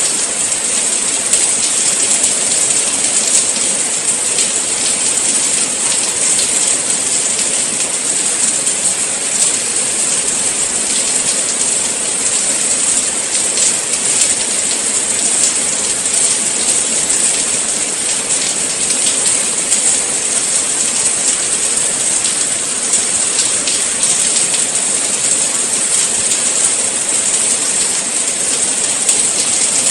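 Steady rain falling, a dense hiss with many fine drops pattering, strongest in the high treble.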